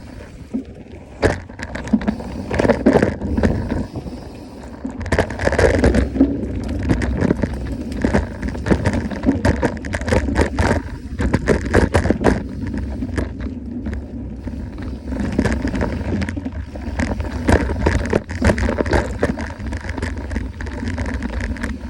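Trek mountain bike ridden over a dirt trail: tyres rolling and crunching on the ground, with frequent sharp rattles and knocks as the bike goes over bumps, over a steady low rumble.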